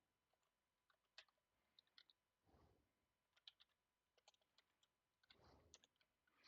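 Faint, sparse computer keyboard key clicks against near silence, a few scattered taps a second apart rather than steady typing.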